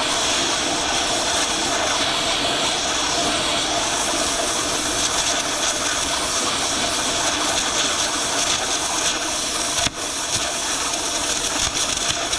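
Electric grinder grinding steel steadily, a continuous high whine and hiss, with a brief break in contact about ten seconds in.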